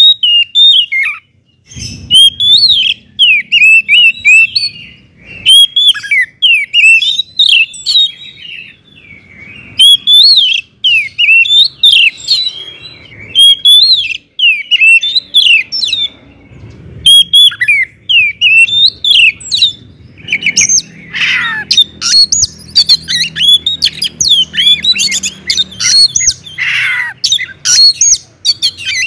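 Oriental magpie-robin (kacer) singing loudly and almost without pause: quick runs of varied whistles, chirps and harsher notes, broken by short gaps.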